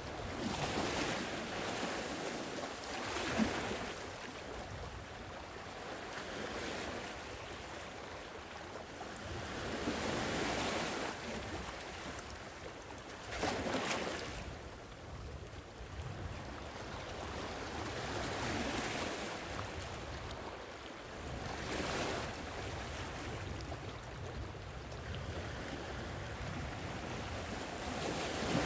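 Sea waves washing onto the shore, each swelling and falling back every few seconds, over a steady low rumble.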